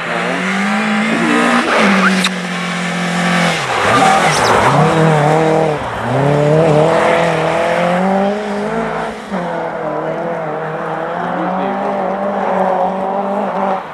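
Rally car engine revving hard as the car slides through a snow-covered corner and passes close by. The revs rise and fall with the throttle, dipping sharply twice near the middle, and the engine keeps pulling hard as the car drives away.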